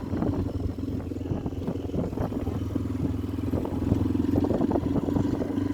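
Motorcycle engine running steadily at riding speed, with frequent short knocks and rattles.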